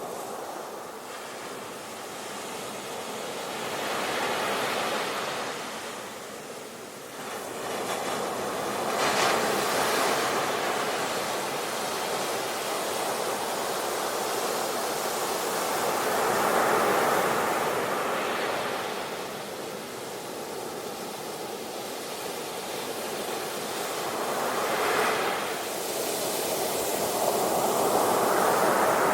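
Sea waves breaking and washing in, a steady rush that rises and falls in slow surges, about five of them.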